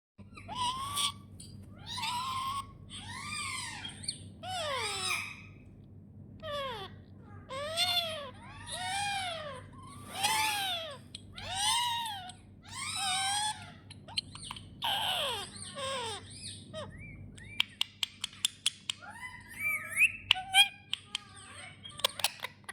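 A parrot calling: a string of a dozen or so rising-and-falling calls, roughly one a second, then a quick run of sharp clicks and short chirps over the last few seconds.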